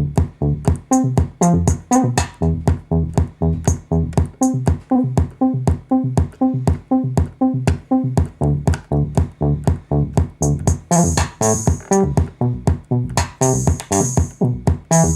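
KORG Kaossilator handheld synthesizer playing a looping electronic pattern: a steady beat of about four pitched, bass-heavy notes a second. A bright hissing high layer joins about ten seconds in.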